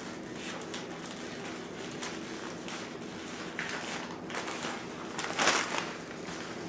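Crinkling and rustling of a torn package being handled and sealed back up, in a few short bursts, the loudest about five and a half seconds in, over a steady low hum.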